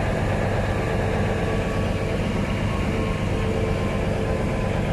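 Idling train in a locomotive depot: a steady, even low engine hum with a faint held tone above it.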